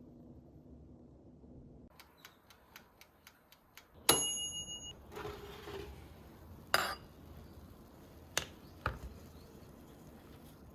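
Kitchenware being handled: a run of light clicks, then a sharp clink about four seconds in that rings briefly like struck metal or glass, followed by a few separate knocks.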